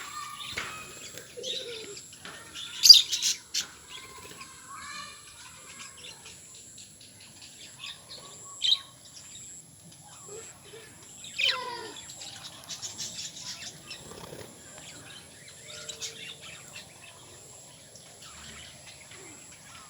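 Pet lovebirds chirping and squeaking in short, scattered calls, with a loud burst of chirps about three seconds in and a loud call falling in pitch past the middle.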